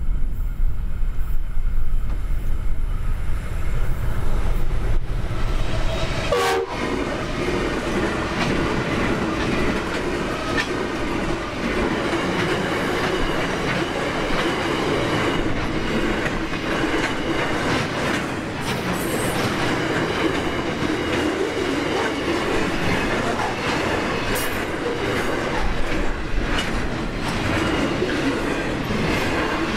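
A freight train of flat wagons loaded with steel coils rolls past at speed. The wheels make a steady rolling noise on the rail, with rhythmic clicking over the rail joints. A deeper rumble in the first six seconds stops abruptly about six seconds in.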